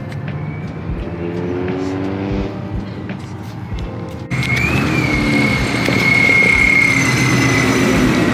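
Car engines running and revving, with a sudden change about four seconds in to louder engine noise under a high, steady whine that bends up briefly and then holds until near the end.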